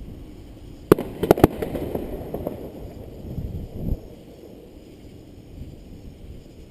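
Fireworks bursting: a quick volley of four or five sharp bangs about a second in, followed by fainter crackling and rumbling that dies away after a few seconds.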